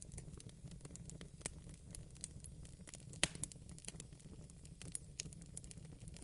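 Wood fire crackling, with irregular small pops over a low steady rumble and one louder pop about three seconds in.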